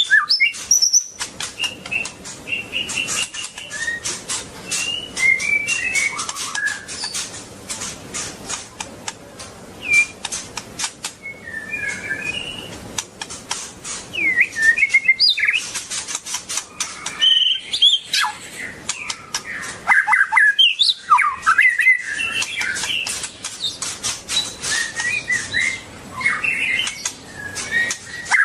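White-rumped shama singing a varied run of whistled phrases and gliding notes, mixed with many sharp clicks.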